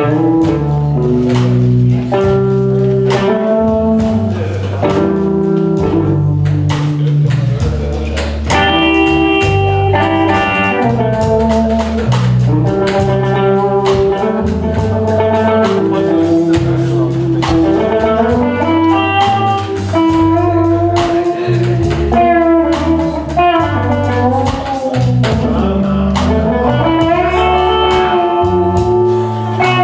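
Live band playing a blues-style instrumental passage, with guitar to the fore over a steady low accompaniment.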